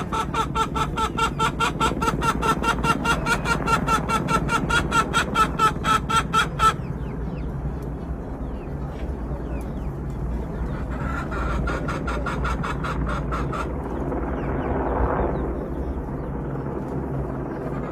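Helicopter with its rotor chopping in rapid regular pulses over a steady turbine whine, which cuts off abruptly about seven seconds in. The whine comes back more faintly a few seconds later, followed by a broad swell of noise.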